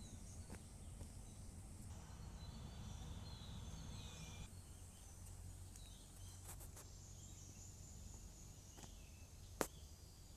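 Faint outdoor ambience: scattered high-pitched chirping calls of wild creatures over a low rumble, with one sharp click near the end.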